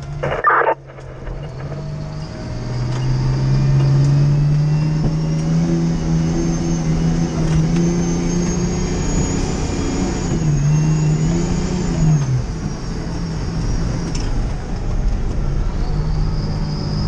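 Fire engine under way, its engine note climbing as it accelerates, dipping briefly about two-thirds of the way through and then climbing again before falling away. A short burst of noise sounds right at the start.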